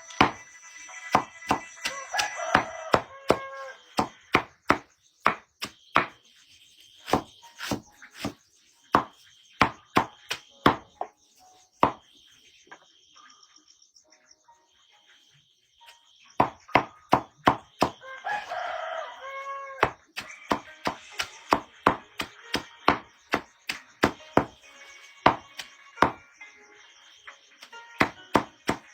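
Rapid, repeated chopping strokes, about two to three a second, pausing for a few seconds midway. A rooster crows twice, once near the start and once about two-thirds of the way through.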